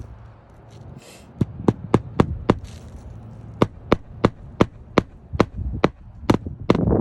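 Hammer driving roofing nails through asphalt shingles. There is a quick run of about five blows, a short pause, then about nine more, roughly three a second.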